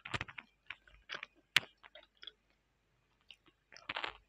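Chewing a mozzarella sausage close to the microphone: scattered wet mouth clicks and smacks, one sharp snap about a second and a half in, and a fresh bite near the end.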